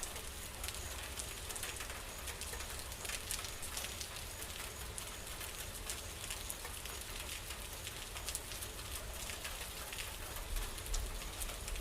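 Steady rain falling, with many separate drops ticking over an even hiss and a low rumble underneath.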